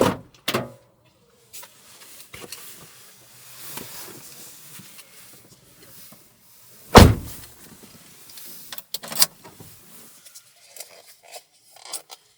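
A series of knocks and thuds with rustling in between, the loudest a heavy thud about seven seconds in.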